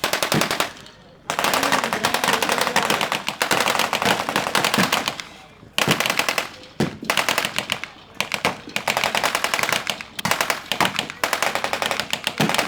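Automatic gunfire from blank-firing weapons in a staged WWII battle: several long, rapid bursts broken by short pauses, the first pause about a second in and another past the middle.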